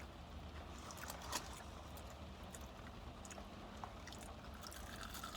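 Mouth noises of people chewing and biting into crispy fried chicken: scattered small crunches and wet chewing sounds, the sharpest about a second and a half in, over a low steady hum inside a car.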